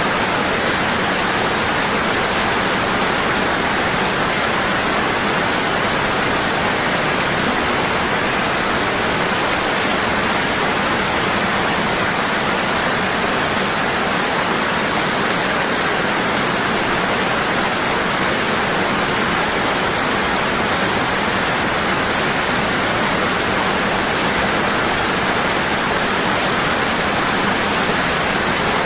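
Waterfall falling heavily and constantly, a steady, even rush of water.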